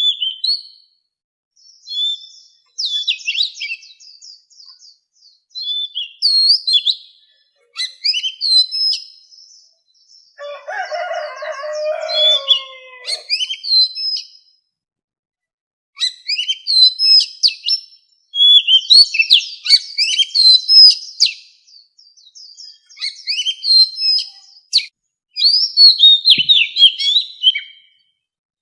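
Oriental magpie-robin singing: phrases of quick, varied whistles and chirps, broken by short pauses. Around the middle, a lower, harsher sound runs under the song for a few seconds.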